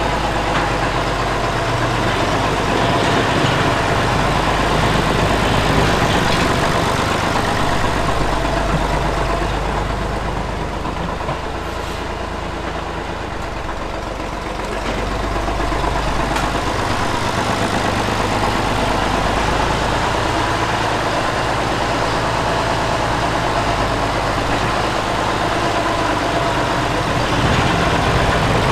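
Tractor diesel engine running steadily. It drops a little in level for a few seconds about a third of the way in, then picks up again.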